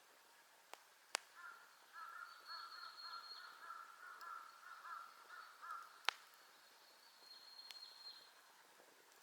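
A crow calling over and over for about four seconds, fairly faint. A few sharp pops from the burning campfire stand out, the loudest about six seconds in.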